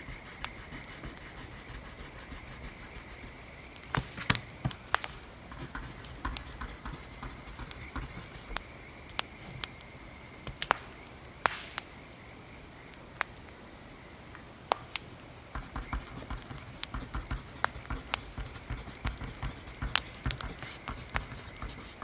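Wood fire crackling, with irregular sharp pops over a faint steady hiss. From about two-thirds of the way in, the scratching and tapping of writing on paper runs beneath it.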